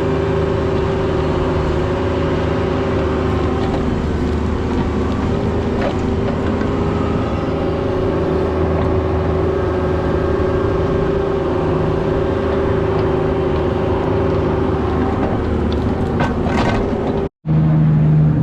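Mini excavator's diesel engine running steadily under digging work, with a few faint knocks. The sound cuts out abruptly near the end, then resumes at a slightly different pitch.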